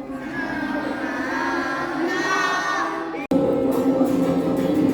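A song with several voices singing, children's voices among them. A little over three seconds in, the sound cuts off abruptly and comes back louder as a group sings in chorus.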